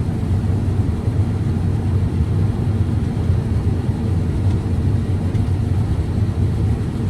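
Combine harvester running steadily while cutting corn: an even, low drone with no breaks.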